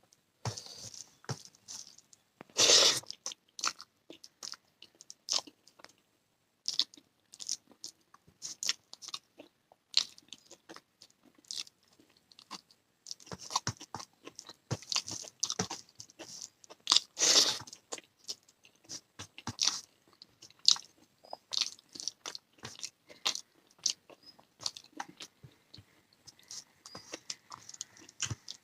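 Close-miked eating of a rice meal with egg curry, raw onion and green chilli: steady wet chewing and many sharp mouth clicks, with two louder crunching bites about 3 s and 17 s in.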